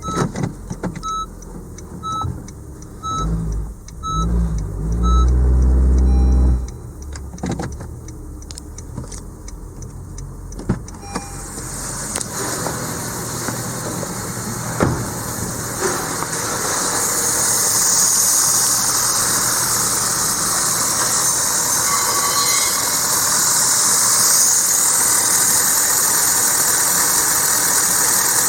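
Honda Vezel's L15B 1.5-litre four-cylinder engine starting and then running steadily at idle, growing louder until it holds an even level in the second half. In the first few seconds a warning chime beeps about once a second.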